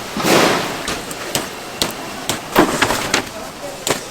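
Irregular sharp knocks and clatter of hands-on kitchen work, opening with a brief rushing noise.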